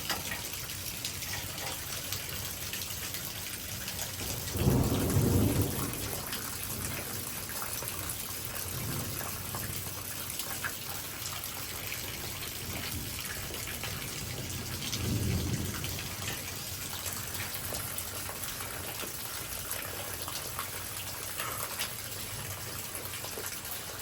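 Heavy thunderstorm rain pouring steadily, with thunder rumbling about five seconds in and again, more softly, about fifteen seconds in.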